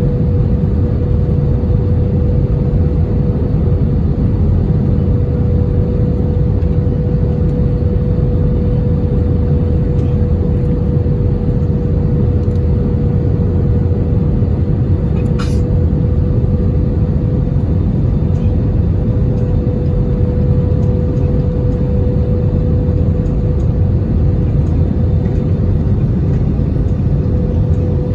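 Airbus A320 cabin noise: a steady loud rumble of engines and airflow, with a constant engine whine. A brief click sounds about halfway through.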